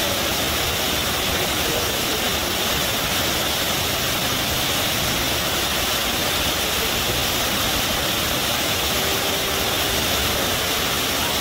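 River water gushing and rushing in a steady, unbroken rush.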